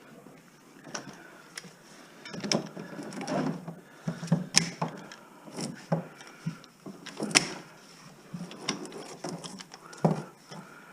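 Irregular sharp clicks and knocks with short spells of rustling and scraping: hand work on old house wiring and debris.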